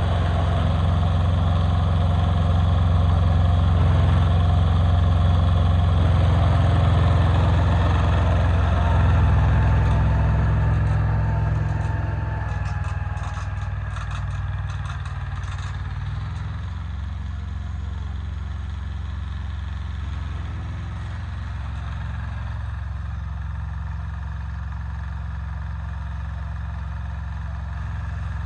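Yanmar YM146 garden tractor's small diesel engine running, louder for the first dozen seconds, then settling to a quieter, steady idle, with a few light clicks as it drops.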